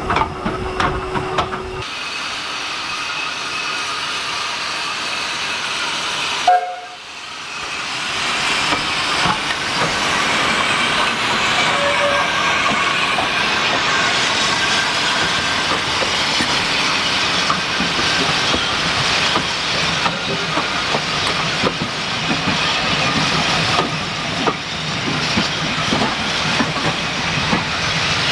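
Steam locomotive with a steady hiss of steam. A steady tone sounds for the first two seconds and stops abruptly. After a sudden break about six seconds in, the hiss builds and holds, with scattered clicks.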